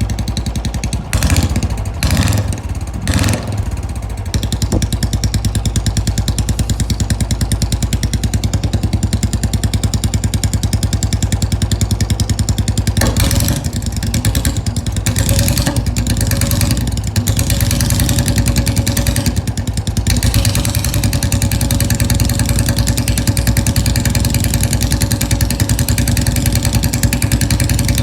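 Royal Enfield Bullet's single-cylinder engine idling with an even, rapid thump, the throttle blipped three times about a second in and again several times around the middle.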